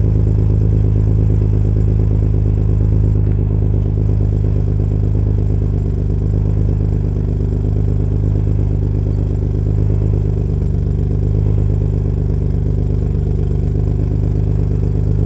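Alfa Romeo 166's 3.0 Busso V6 running at a steady idle after a cold start, heard through an exhaust with a replacement catalytic converter, the centre silencer removed and a Pesla rear silencer.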